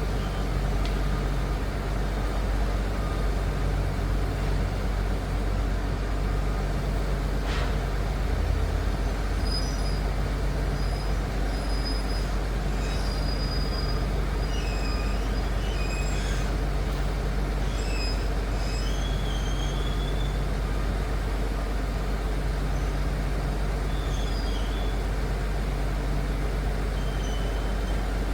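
Liebherr PR 746 crawler dozer's diesel engine running at a steady, unchanging pitch, with birds chirping over it from about a third of the way in.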